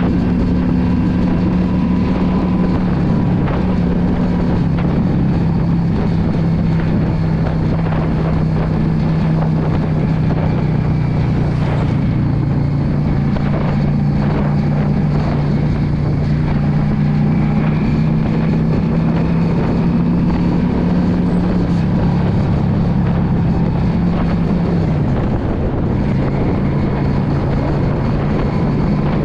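2016 Yamaha V Star 650's air-cooled V-twin engine running at a steady speed while riding, with wind buffeting the microphone. The engine note drops a little near the end as the bike eases off.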